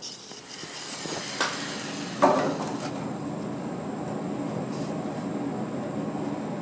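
Two sharp knocks, the second the loudest, then a steady mechanical running noise with a low hum underneath.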